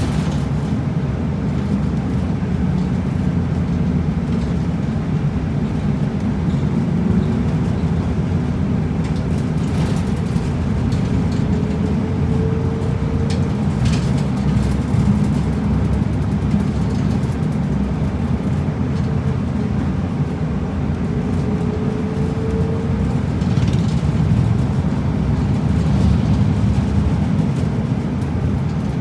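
Route bus driving, heard from inside the cabin: a steady low engine and road rumble, with a few short rising whines as the bus picks up speed.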